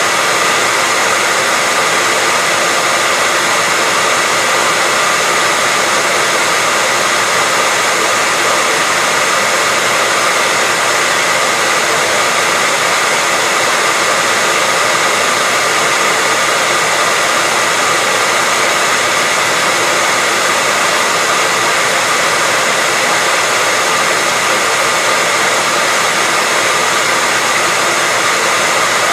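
Hair dryer running continuously at a steady speed: an even rushing hiss of blown air with a faint constant whine from the motor.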